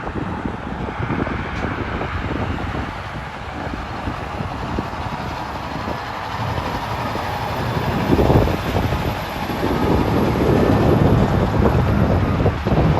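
Highway traffic with heavy trucks going by: engine and tyre noise that swells about eight seconds in and again near the end.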